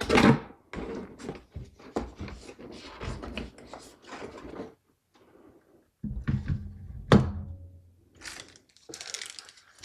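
Handling noise from a small SFX power supply (a Lian Li SP 850) and its cables: rustling, clicks and knocks, then a few low thumps and one sharp clack about seven seconds in.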